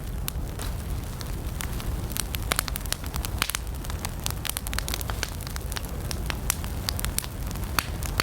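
Wood campfire burning: a steady low rumble of the flames with many sharp, irregular crackles and pops from the burning logs.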